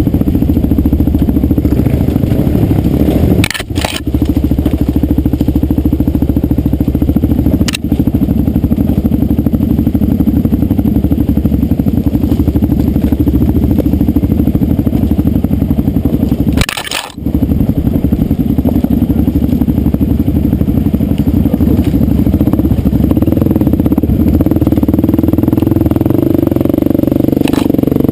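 Dirt bike engine running loud and close under throttle on a trail ride, with brief sudden drops in the sound about four seconds in and again about seventeen seconds in.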